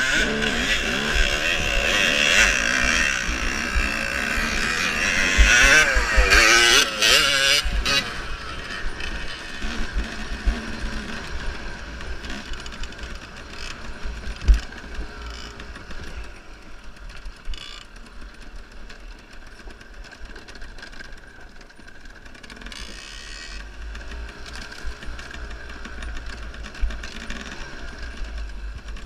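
Enduro motorcycle engine revving hard and changing pitch for the first several seconds. It then runs quieter, under many low knocks and rumble on the microphone.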